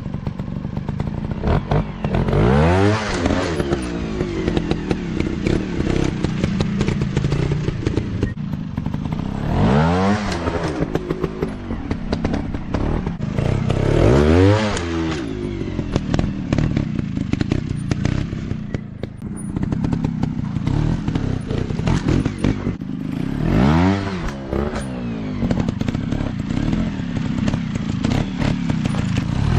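Dirt bike engines running and revving, rising and falling in pitch about five times, with clattering and scraping mixed in.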